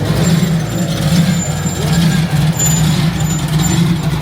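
Car engine idling with an uneven, choppy low rumble.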